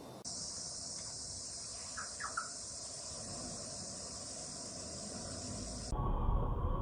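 Steady high-pitched insect chirring, with a few short chirps about two seconds in; it stops abruptly near the end, giving way to a low rumble.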